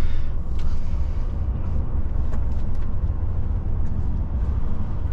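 Steady low rumble of a DAF truck's diesel engine and running gear, heard from inside the cab.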